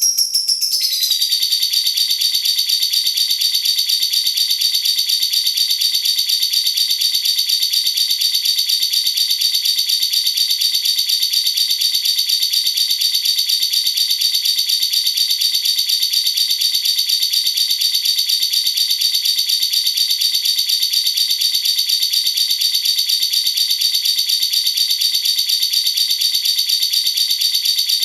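A cage bird's long, unbroken rapid trill: a steady rattle of high, evenly spaced notes that settles in within the first second and holds unchanged, the kind of long roll or chatter used as bird-training song.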